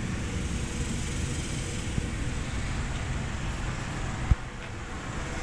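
Steady low rumbling background noise, with one sharp thump about four seconds in.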